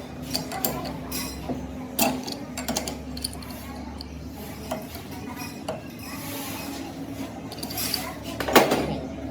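Metal clinks and knocks of tools and steel parts being handled, with one louder clank near the end, over a steady low machine hum.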